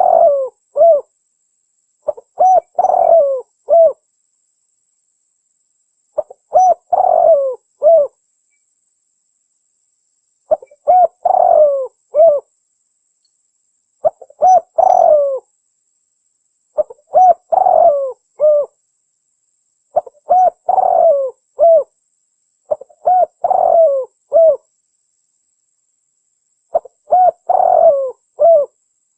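Tekukur merah dove cooing: the same short phrase of three or four coos, repeated about every three to four seconds, eight times over.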